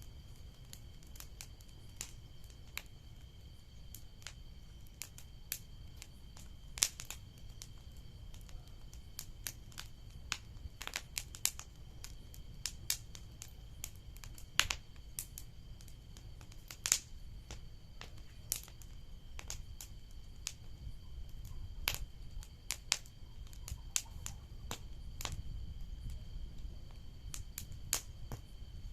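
Wood bonfire crackling: irregular sharp pops and snaps, a few louder ones, over a low steady rumble.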